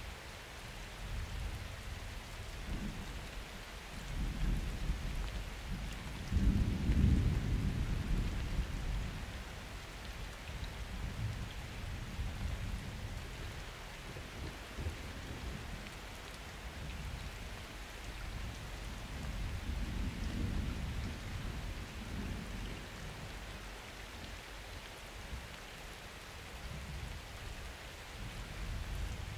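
Steady rain falling during a summer thunderstorm, with thunder rolling in low rumbles: the loudest swell comes about six seconds in and dies away over a few seconds, and a smaller rumble follows about twenty seconds in.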